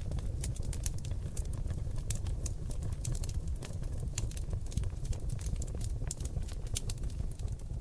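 Oak-log fire in a fireplace crackling: many irregular sharp pops and snaps over a steady low rumble of the flames.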